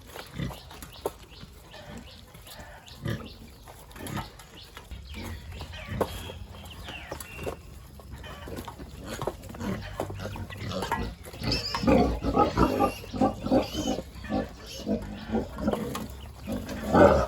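Pigs grunting in short irregular calls, sparse at first and then denser and louder over the second half, with the loudest burst near the end.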